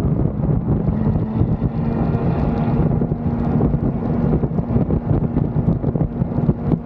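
Suzuki GSX-R750 sportbike's inline-four engine running at a steady engine speed, with wind buffeting the microphone.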